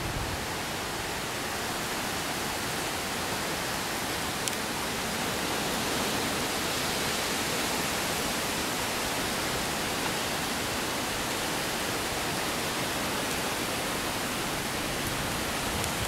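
Heavy thunderstorm rain pouring down as a steady hiss, swelling slightly midway.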